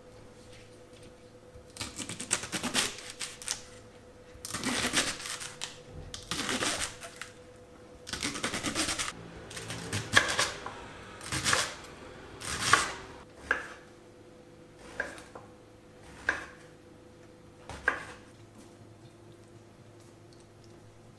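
Kitchen handling sounds: several short rustling, scraping bursts, then a run of separate sharp taps about every second and a half that stops a few seconds before the end.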